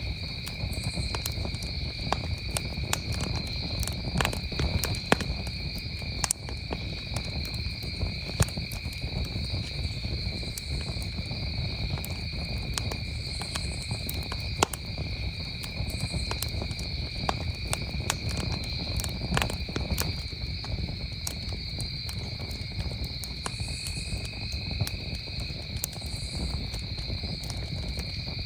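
Campfire crackling, with frequent sharp irregular pops over a low rumble, while crickets trill steadily and high-pitched throughout.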